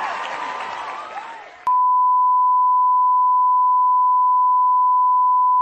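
A dense mix of many overlapping warbling, rising-and-falling calls fades away, then about a second and a half in a steady electronic beep at one pitch comes in abruptly and holds.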